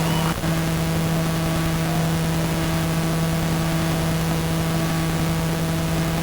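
Steady electrical hum over even hiss, with a brief dropout about half a second in.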